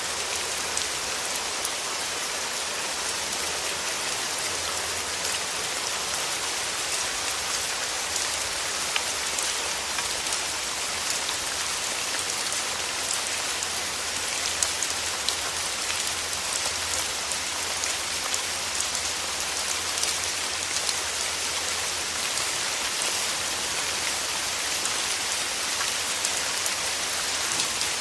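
Steady rain falling on a hard surface: a dense, even hiss, sprinkled with the ticks of single drops.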